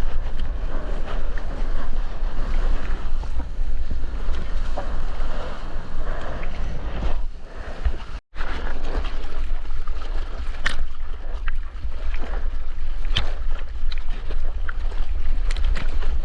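Wind buffeting an action camera's microphone along with ocean water splashing and washing around, a loud steady low rumble with scattered sharp splashes. The sound cuts out completely for a split second about eight seconds in.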